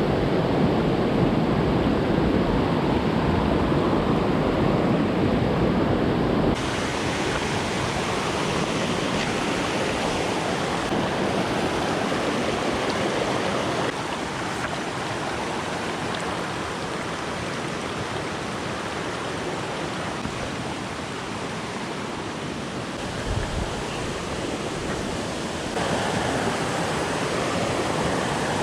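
Small mountain stream flowing, a steady rush of water whose loudness and tone shift abruptly three times.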